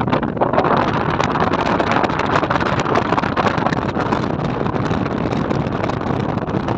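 A moving vehicle's running noise mixed with heavy wind rushing and crackling on the microphone, steady throughout.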